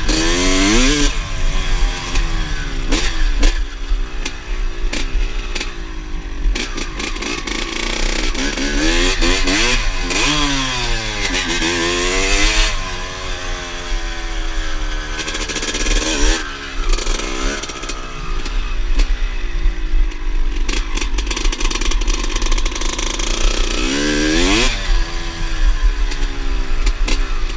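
Two-stroke motorcycle engine revving, its pitch climbing and falling several times with a few sharp crackles in between.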